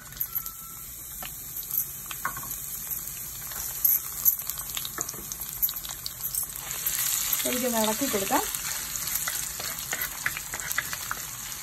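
Chopped ginger and garlic frying with curry leaves in hot coconut oil in a clay chatti: a steady sizzle with scattered crackling pops. The sizzle grows louder about six and a half seconds in, and a wooden spatula stirs the pan toward the end.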